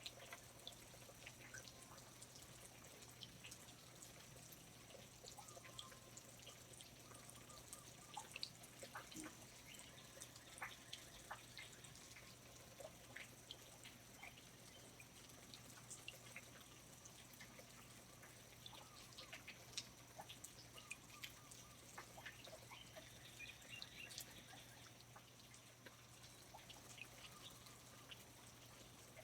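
Quiet Hawaiian rainforest ambience: water drops dripping at irregular intervals, over a faint steady low hum.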